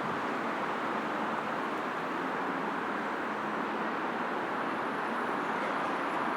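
Steady road traffic on a busy multi-lane city road: a continuous roar of cars and tyres passing, with no single vehicle standing out.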